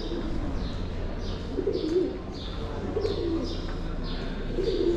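Birds calling: short, high, downward-sliding chirps repeating about twice a second, with lower calls coming every second or so.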